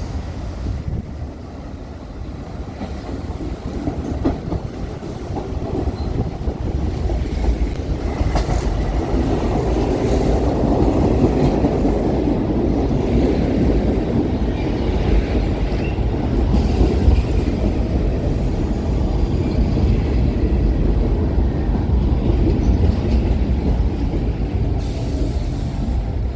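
New York City subway train running past on the tracks, a continuous rumble that builds over the first several seconds and then stays loud, with a few sharp clicks.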